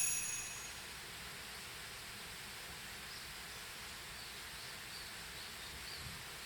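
Quiet outdoor ambience: a steady faint hiss with a few faint high chirps in the middle. A high ringing tone fades out in the first half second.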